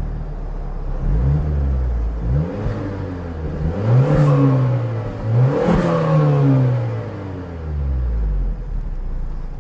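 Turbocharged Mazda3 engine with a CorkSport intake revved up several times, its pitch climbing and falling back. A brief whoosh rises from the intake at the top of the two strongest revs, about four and six seconds in.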